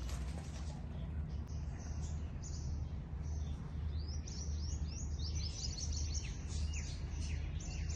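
Small birds chirping: a rapid run of short, falling, high chirps that begins about two seconds in and grows busier, over a steady low hum.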